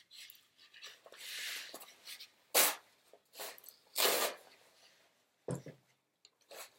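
A person exhaling sharply and loudly twice, a second and a half apart, after a softer breathy hiss; a smaller burst follows about a second later.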